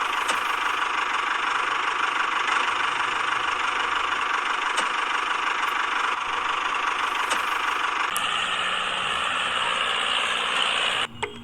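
A small motor in a DIY miniature tractor running steadily with a high whirring. About eight seconds in its note changes and a low hum joins it. It cuts off just before the end.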